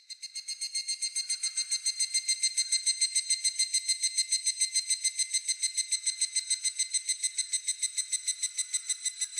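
Higurashi (evening cicada) calling: a rapid run of high, ringing pulses, about eight a second. It starts suddenly and weakens slightly near the end.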